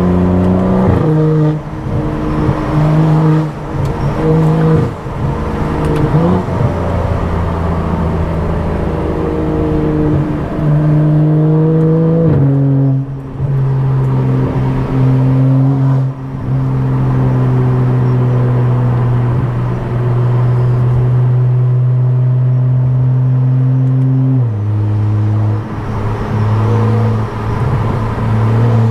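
Tuned BMW F10 535i's turbocharged straight-six and loud aftermarket exhaust, droning at a mostly steady engine speed while driving. The pitch drops in steps at upshifts about a second in, about twelve seconds in and near the end.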